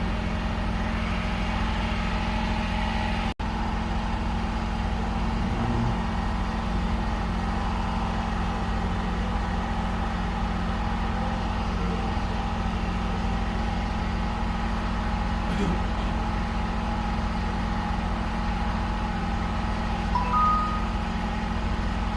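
2008 Lexus RX 350's 3.5-litre V6 idling steadily, its rough idle cured now that the engine coolant temperature sensor has been replaced and its cut wires repaired. Two short beeps sound near the end.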